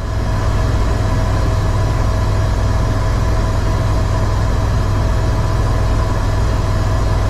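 Eurocopter EC130 helicopter in flight, heard inside the cabin: a loud, steady low drone from the rotor and turbine, with a steady whine over a wide hiss.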